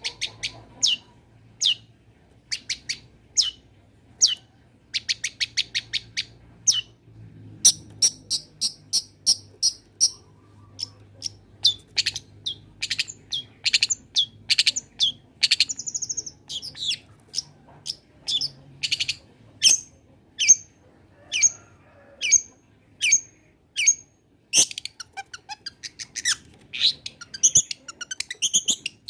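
Long-tailed shrike (cendet) singing vigorously: sharp, high chirps that sweep down in pitch, repeated one to three times a second. About five seconds in there is a quick rattling run of notes, and busier phrases come in the middle.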